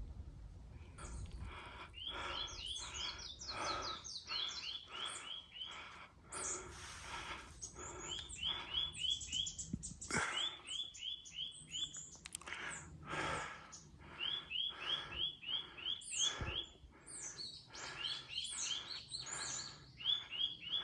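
A chorus of many small birds of one unidentified kind, calling over and over in quick runs of short, high, hooked chirps, several a second.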